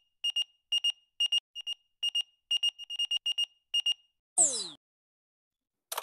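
Electronic alarm-clock style beeping: short, high beeps, often in quick pairs, repeated for about four seconds. Then a single quick tone sweeps down in pitch, and near the end a noisy rustling sound begins.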